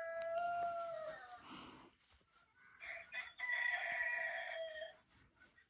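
Rooster crowing twice: two long held crows, the second starting about three seconds in.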